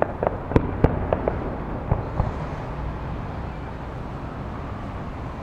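Distant aerial fireworks: a quick run of sharp pops and bangs in the first two seconds or so, then a low steady rumble.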